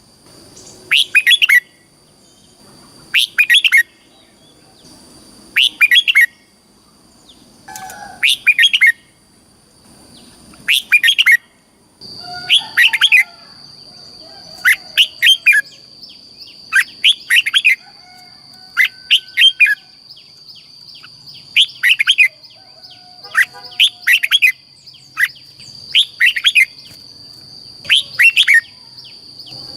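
Red-whiskered bulbul singing: short, bright, warbling phrases repeated about every two seconds, coming a little faster near the end. A steady high thin whine runs underneath and grows louder about twelve seconds in.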